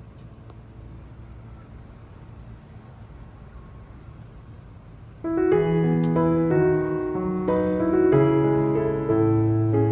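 Background piano music, slow chords of held notes, coming in suddenly about five seconds in after a faint, steady low rumble.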